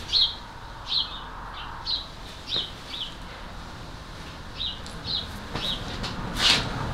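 A small bird chirping: about nine short, high chirps that fall in pitch, at uneven intervals. A brief, louder burst of rasping noise comes near the end.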